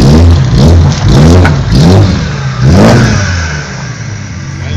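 BMW E36 M3 straight-six through a Supersprint exhaust, blipped about four times in quick succession, each rev rising sharply and falling back, then settling to a lower steady run near the end.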